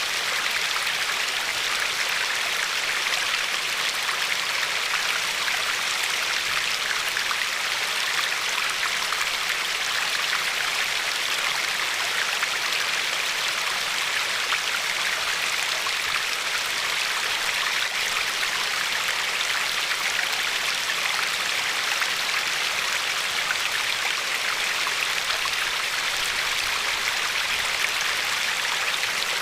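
Glacier-fed river flowing steadily, its water lapping over a pebble shore. It makes an even, bright rushing hiss flecked with small splashes, with no change in level.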